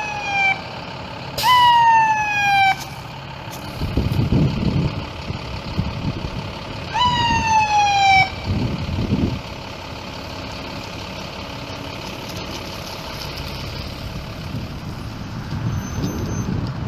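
Short electronic siren whoops from an emergency vehicle, each jumping up in pitch and sliding down over about a second, three of them in the first half. Low engine rumble of vehicles passing comes in from about four seconds in.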